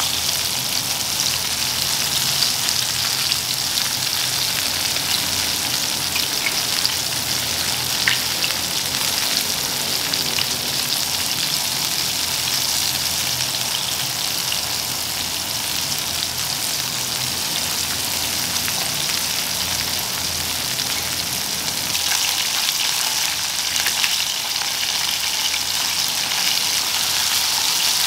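Flour-coated chicken wings shallow-frying in hot oil in a pan, a steady sizzle, with a few light clicks of chopsticks turning the pieces.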